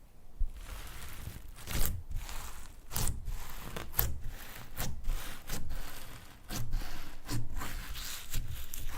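Hands working slime: irregular squishing, rubbing and scraping strokes, roughly one or two a second, with short crackly snaps among them.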